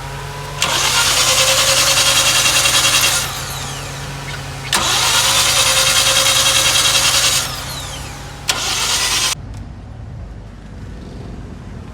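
Toyota XLi engine being cranked on the starter three times, twice for a couple of seconds and once briefly, with the spark plugs out, so it spins without firing and air rushes from the plug holes in fast, even pulses.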